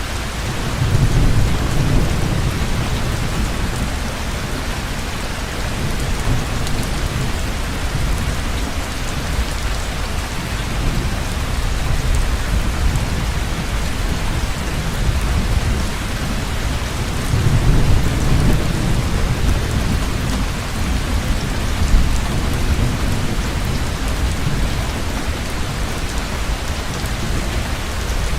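Heavy rain falling steadily, with low rolling thunder that swells about a second in and again about two-thirds of the way through.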